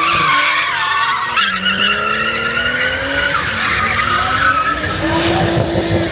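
Car doing a burnout: the engine is held at high revs, its pitch rising and falling, while the spinning rear tires squeal against the pavement.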